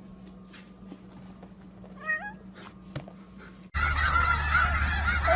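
A cat gives one short meow, rising in steps, about two seconds in over quiet room noise. Just before four seconds it cuts abruptly to a flock of geese calling, with a louder outdoor noise bed behind them.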